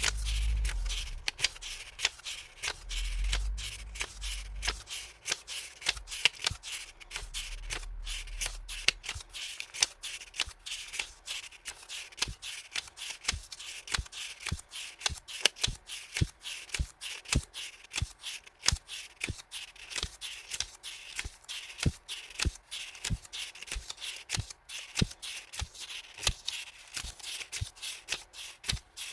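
Hands handling paper stationery and its packaging: a dense run of quick rustles and small clicks, with low bumps against the table in the first several seconds.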